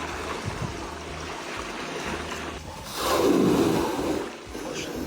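Sea water washing and splashing, with a louder surge about three seconds in.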